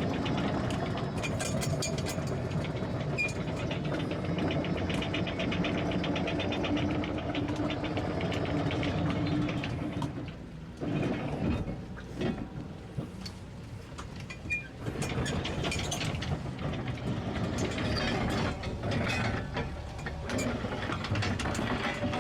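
Anchor being hauled aboard: a windlass running, with the chain clicking quickly over it for about the first ten seconds, then slower, uneven knocks as it stops and starts. A boat engine idles underneath.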